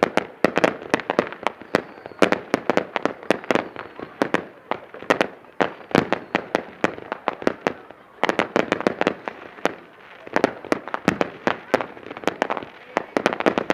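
Fireworks going off in rapid volleys of sharp bangs and crackles, several a second, easing briefly about two-thirds of the way through before picking up again.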